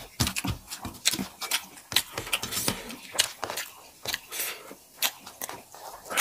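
Close-miked eating sounds of rice eaten by hand: chewing and lip smacking, with a rapid, irregular run of wet clicks.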